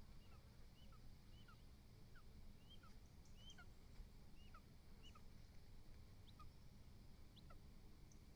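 Faint, short rising chirps from a bird, repeated about twice a second, over a steady low rumble of background noise.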